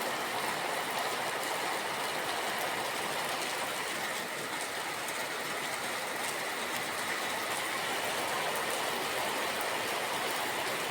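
Steady rain: an even hiss that holds at one level without breaks.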